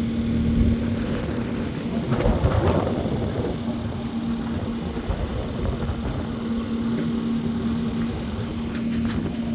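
An engine idling steadily with a constant hum, with a brief burst of louder clatter about two seconds in.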